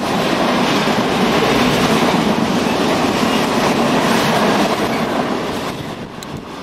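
Freight cars rolling past on steel wheels: a steady rumble and clatter of wheels over the rail joints from a mixed train of tank car, covered hoppers and double-stack container cars. The sound drops somewhat in level near the end.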